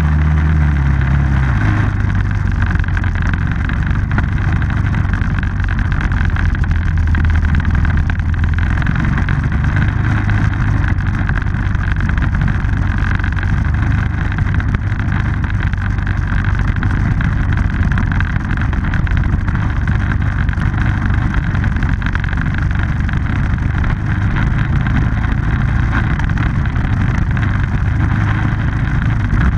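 Small off-road vehicle engine running at a steady pace while riding, a continuous low rumble with no big revs or pauses.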